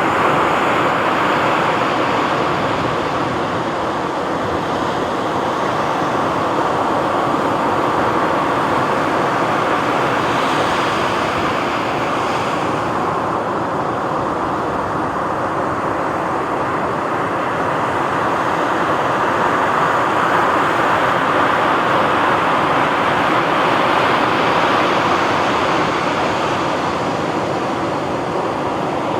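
Sea waves washing onto a beach: a continuous rushing surf that swells and eases slowly, with a brighter hiss about ten seconds in.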